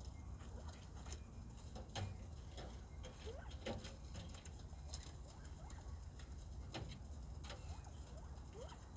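Bobwhite quail giving soft, short rising peeps and chirps at scattered moments, amid many light clicks and scratches, over a low steady rumble.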